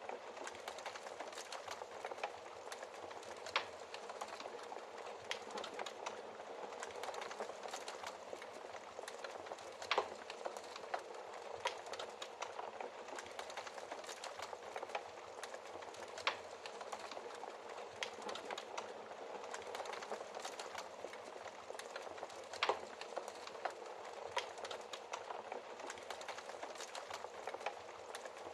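Wood fire burning in a fireplace: a steady crackle and hiss, broken by frequent sharper pops, the loudest about 10 seconds in.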